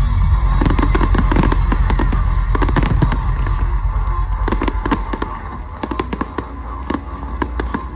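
Fireworks going off: a dense run of sharp crackling bangs that thins out and grows quieter after about five seconds, over the show's music with a steady deep bass.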